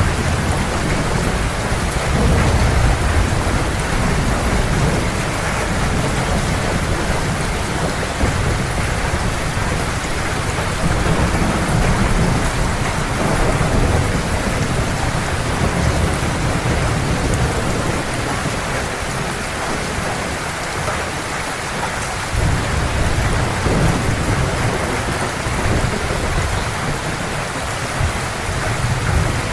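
Heavy rain pouring steadily, with deep rolling thunder rumbling underneath that swells and eases, briefly dropping away about two-thirds through before returning.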